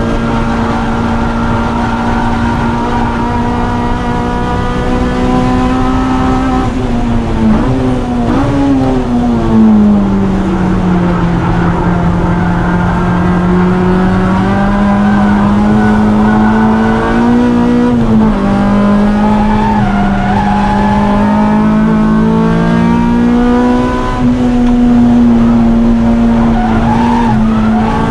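Onboard sound of a car engine held at high revs around a race track, its pitch dipping and climbing as it goes through corners and gears, with a wavering squeal from tyres struggling for grip in the middle stretch.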